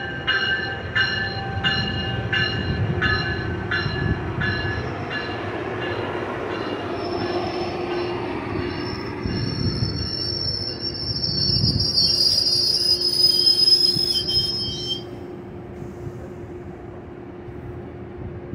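Metrolink commuter train rolling slowly through a station over a steady rumble. A ringing tone repeats about twice a second and fades out in the first few seconds. Then the wheels squeal high from about seven seconds in, loudest a little before the squeal cuts off about fifteen seconds in.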